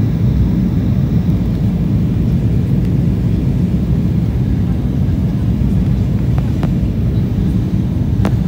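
Steady low rumble of an Embraer E190 airliner heard from inside the passenger cabin: engine and airflow noise, with a few faint clicks near the end.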